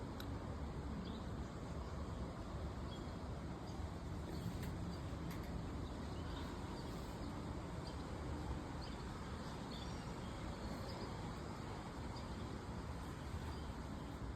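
Steady outdoor background noise, mostly a low rumble, with faint, scattered short bird chirps.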